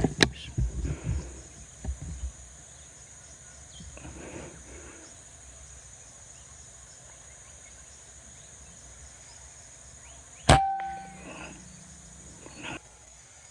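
A single air-rifle shot about ten seconds in: a sharp crack with a brief metallic ring after it, followed by a couple of fainter handling knocks. A steady high drone runs underneath, and there are a few loud knocks near the start.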